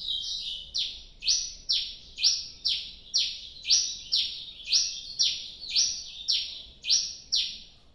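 A cravina songbird singing. A few quick high notes open the song, then it runs into a long series of loud, repeated downslurred whistles, about two a second, that stop just before the end.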